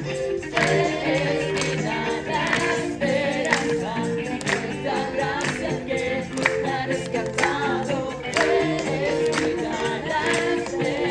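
A group singing a Spanish-language Christian worship song over instrumental accompaniment, with a sharp percussive beat about once a second.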